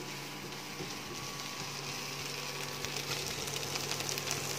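Onion and ginger-garlic paste sizzling softly in butter in a nonstick wok, over a steady low hum. The sizzle grows louder near the end as shredded chicken is tipped in, with a few light clicks of the spatula.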